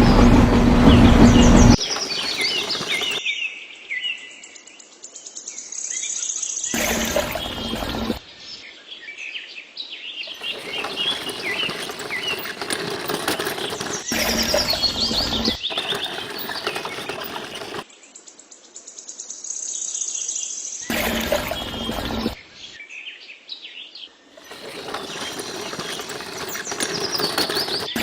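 Small birds chirping and twittering in short, high calls, in stretches that cut in and out abruptly. A loud, steady motor hum ends sharply about two seconds in.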